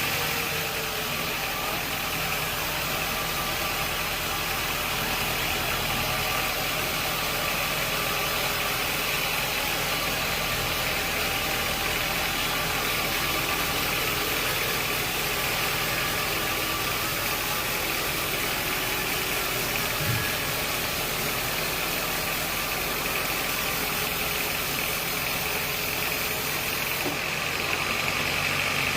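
Sawmill machinery running steadily with an even, engine-like hum, with one short knock about twenty seconds in.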